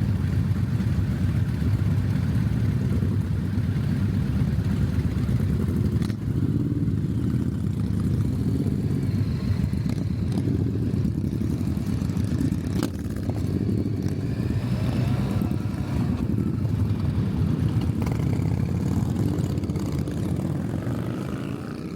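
Motorcycle running steadily on the move, with a dense low rumble throughout and a few brief rises in pitch about two-thirds of the way in.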